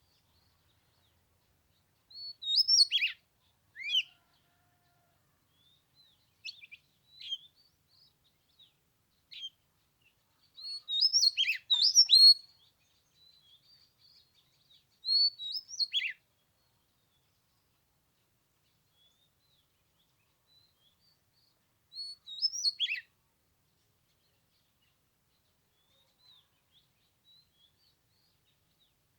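Oriental magpie-robin singing: short, loud whistled phrases that sweep downward, broken by pauses of several seconds.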